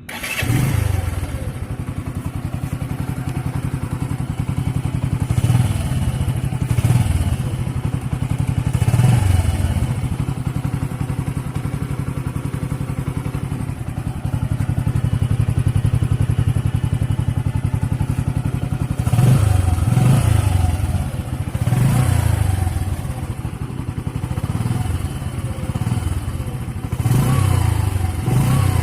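Bajaj CT 100 ES motorcycle's single-cylinder four-stroke engine starting and then idling, with a few short throttle blips in the first ten seconds and a string of quick revs in the last ten.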